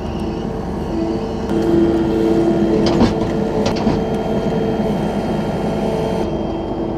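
Farm machinery running steadily while haylage is loaded into a feed mixer, a little louder after the first couple of seconds, with a few short knocks around the middle.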